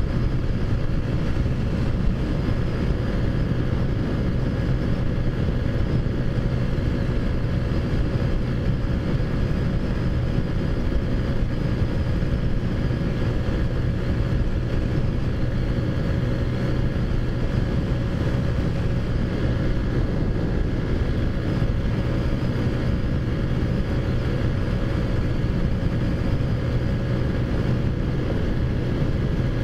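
Taotao Zummer scooter's big-bore 50cc four-stroke engine running at a steady cruising speed of about 45 mph, its pitch unchanging, with wind rushing over the microphone.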